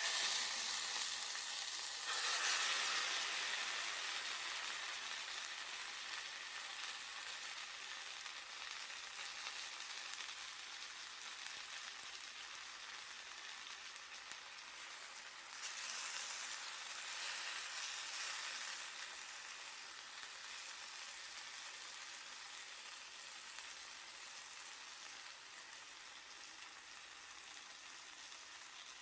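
Chicken sizzling as it grills over a wood fire, flaring louder about two seconds in and again around sixteen seconds, then gradually settling quieter.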